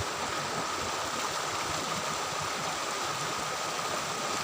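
Steady rushing of river water flowing, an even unbroken wash of noise.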